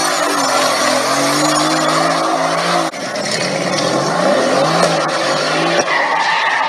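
Car engine running and revving, its pitch rising and falling, over loud road and tyre noise, with abrupt changes about three and six seconds in.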